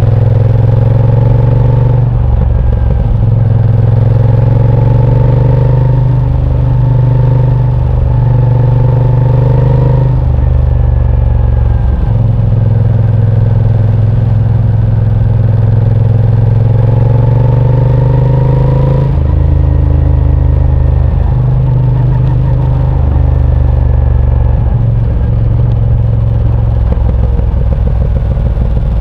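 Moto Guzzi transverse V-twin motorcycle engine running under way. Its note climbs steadily several times and drops back between the climbs as the throttle opens and closes through the ride.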